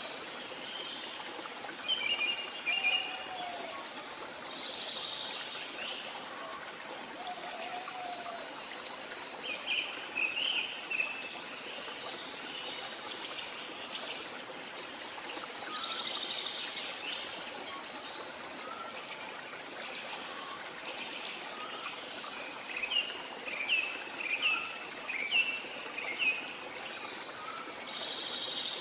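Wild birds calling, with clusters of quick high chirps about two seconds in, near the middle and again near the end, over a steady sound of running water from a stream.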